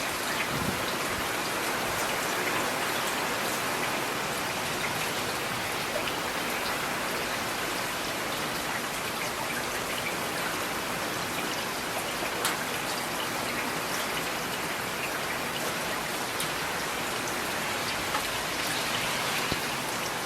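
Steady rain falling, with individual drops clicking sharply now and then over an even wash of rain.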